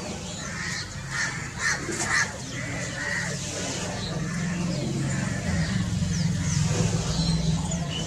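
Birds calling: a run of harsh, caw-like calls in the first three seconds, with fainter high chirps throughout. A low steady hum swells in from about halfway and becomes the loudest sound.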